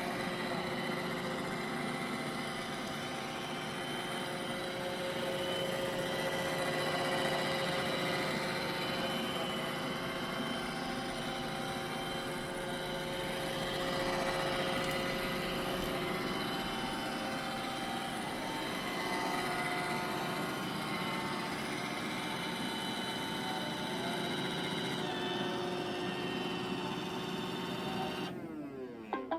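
iRobot Roomba i7+ robot vacuum running, its motor and brushes making a steady whirring hum with a few steady whining tones. The tones slide down in pitch at the very end as it winds down.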